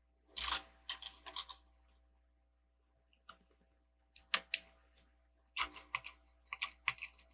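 Plastic Lego bricks clicking and clattering as they are handled and fitted together, in three short clusters of quick clicks.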